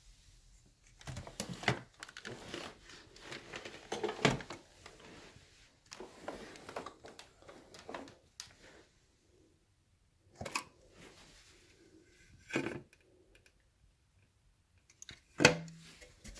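Irregular clicks, knocks and rattles of the plastic parts of a Kenmore Whispertone upright vacuum being handled, with quiet gaps and one sharp, loud knock near the end; the motor is not running.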